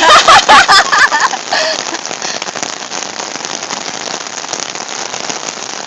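Heavy rain pouring down in a thunderstorm, a steady hiss. A voice calls out over it in about the first second.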